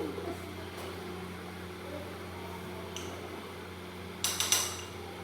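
Steady low electrical hum, then near the end a quick cluster of sharp clinking and scraping strokes from a utensil against a dish.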